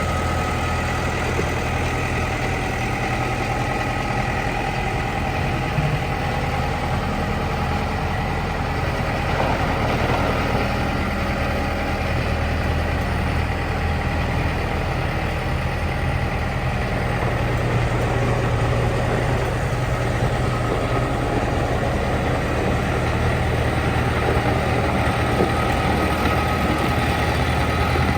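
Case 1845C skid steer loader's four-cylinder diesel engine running steadily at idle, its pitch and level even throughout.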